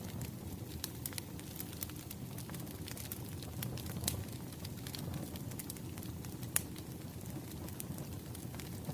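Wood fire crackling: a steady low rush of burning with scattered sharp pops, one louder pop about six and a half seconds in.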